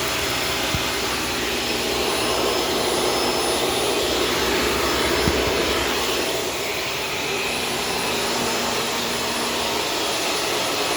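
Shark Stratos vacuum cleaner running steadily, a constant motor whine over suction noise, with a couple of faint clicks.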